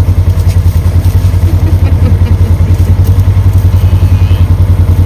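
Small vehicle engine running steadily close by, a loud low throb pulsing about a dozen times a second.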